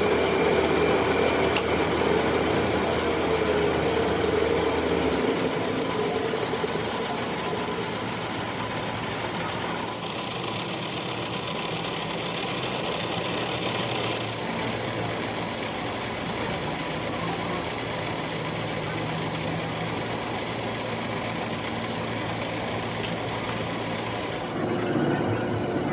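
A metal lathe running in a machine shop with a steady motor hum. A falling tone sounds in the first few seconds, and the machine noise changes about ten seconds in and again near the end.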